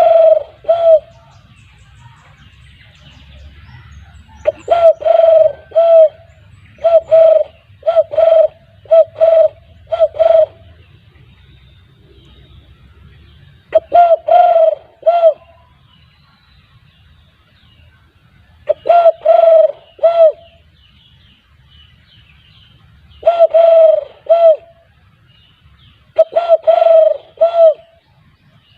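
Spotted dove (tekukur) cooing: about six phrases of short, loud coos, each a quick run of several notes, with pauses of a few seconds between phrases.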